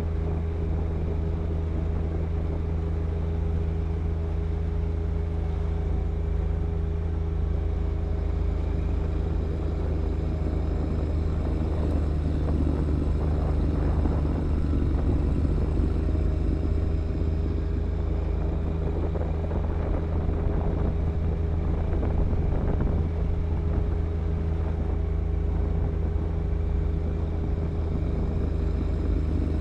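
John Deere 1025R compact tractor's three-cylinder diesel engine running steadily with the snow blower in use, with rougher noise swelling twice in the middle.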